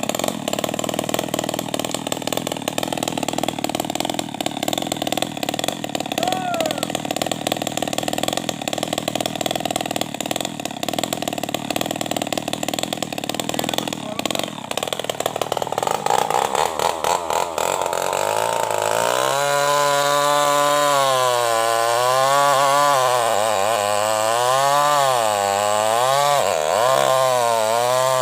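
Tuned-up New West 588 two-stroke chainsaw running at speed through the tree, loud and steady at first; in the latter part its pitch swings up and down over and over as the engine speed rises and falls.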